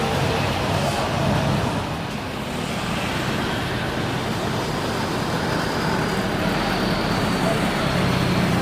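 Steady running noise of a vehicle, a continuous rumble with a low engine hum.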